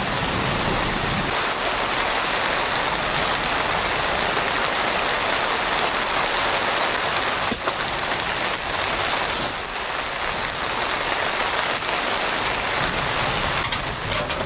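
Steady heavy rain falling. A low rumble of thunder dies away in the first second and a half, and a few sharp ticks of drops striking come about halfway through and near the end.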